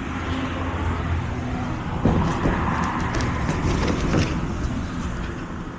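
Steady low motor hum with traffic noise, growing louder and busier for about two seconds near the middle.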